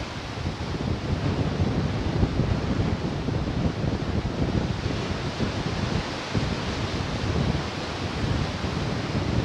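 Ocean surf, a steady rush of waves breaking, with wind rumbling on the microphone.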